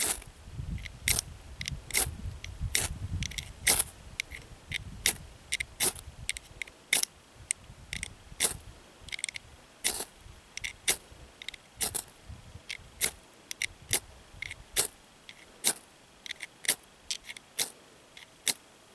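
Ferro rod struck again and again with its steel striker, about two sharp scrapes a second, each showering sparks onto dry hay to light a fire.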